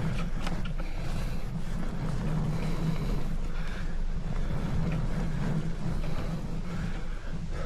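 Steady low rumble of wind buffeting the microphone while a bicycle is ridden.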